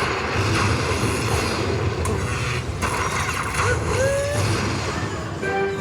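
Slot machine game sounds: a dense clattering, whooshing noise of spinning reels and effects, with a couple of short rising whistle tones partway through and a run of chiming notes starting near the end.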